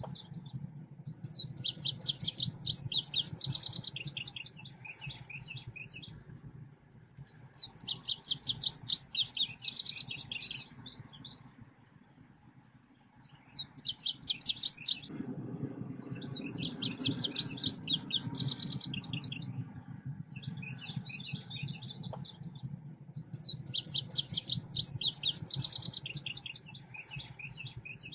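Selendang biru songbird singing in repeated bursts of rapid, high chirping notes, each phrase lasting two to four seconds with short pauses between, over a steady low hum that grows louder about halfway through. It is a lure and song-tutor call track.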